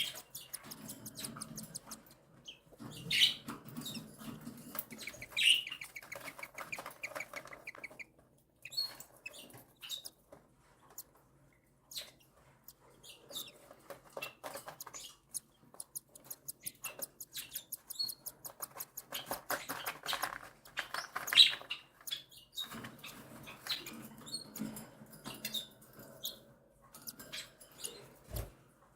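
Cockatiel chicks begging to be fed by their mother: repeated bouts of rapid, pulsing begging calls with short chirps, mixed with many sharp clicks and scratchy rustling in the nest.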